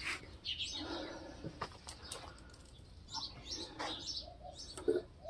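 Faint bird calls, chirps and coos, with scattered light clicks and rustling close by.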